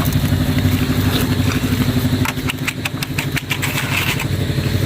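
Engine of a concrete mixer running steadily with a fast even pulse, with a short run of sharp clicks and rattles around the middle.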